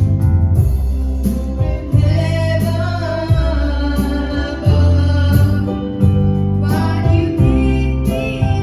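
Gospel song: singing over instrumental accompaniment with a steady bass line and guitar. The voice comes in about two seconds in and again near the end.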